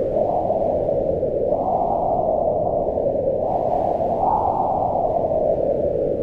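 Howling wind: a steady rush of noise whose pitch swells upward about one and a half seconds in and again about four seconds in, then sinks toward the end.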